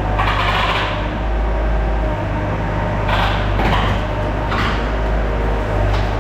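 Skid steer's engine running steadily, with several short noisy mechanical bursts over it.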